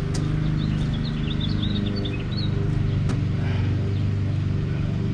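A steady low hum, engine- or machine-like, with a small bird chirping a quick run of high notes from about half a second to two and a half seconds in.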